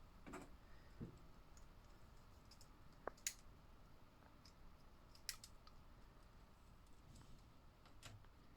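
Faint, sparse plastic clicks and taps from small toy slot cars being handled, about half a dozen spread over several seconds, over near-silent room tone.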